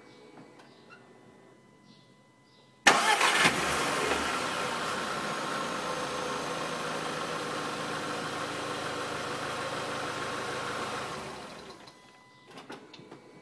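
Volkswagen Scirocco 1.4 TSI 160 four-cylinder engine started about three seconds in, catching at once and running at a steady idle for about eight seconds before dying away. It is recorded for a strange noise at start-up that the owner hears.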